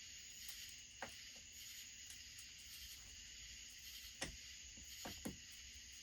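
Faint steady chirring of crickets, with four light clicks of a hand tool on the chainsaw's screws, about a second in, then three close together in the second half.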